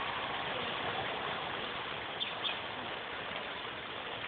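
Steady hiss of falling rain, with two faint ticks about halfway through.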